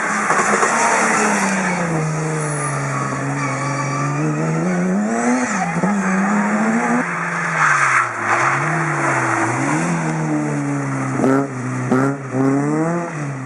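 Rally car engine driven hard, revving up and falling back again and again through corners, with tyre squeal. A few sharp pops near the end.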